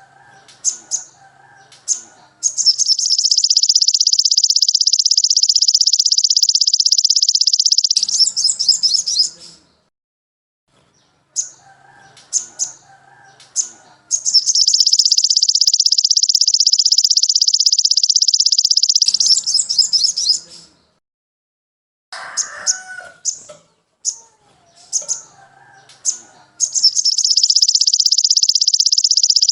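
A looped bird-song tutor recording (masteran) for training sogon birds. Short high chirps sound over a faint lower warbling, then a long, loud, high, rapid trill of about five seconds. The sequence comes three times.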